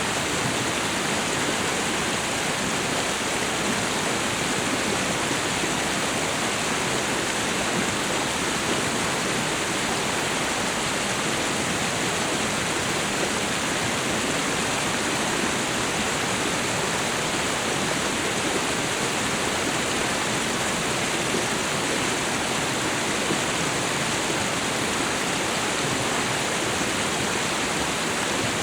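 Waterfall and river water rushing in a steady, unbroken hiss.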